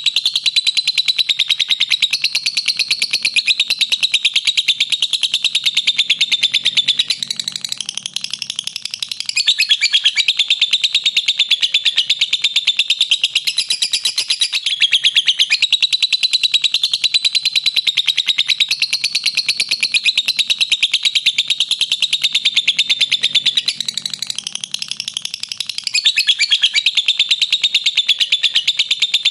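Lovebird's 'ngekek': a long, unbroken, rapid high chattering trill. It eases off briefly twice, about a third of the way in and again near the end, then picks straight back up.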